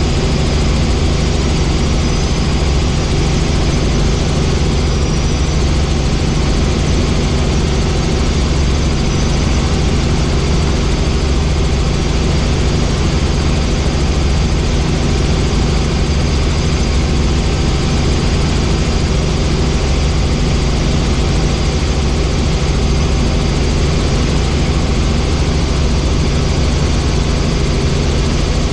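Helicopter in flight: a loud, steady drone of rotor and engine with a low hum, unchanging throughout.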